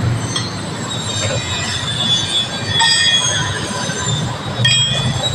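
Single-cylinder motorcycle engine running steadily, with high-pitched squealing tones over it and a short metallic clank near the end.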